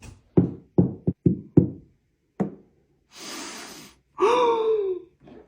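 A quick series of sharp knocks, then a breathy hiss and a drawn-out cry from a man's voice near the end.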